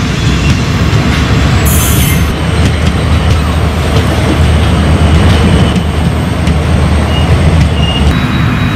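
A passenger train's coaches rolling past close by, their wheels running on the rails with a steady low rumble. A brief high hiss comes about two seconds in.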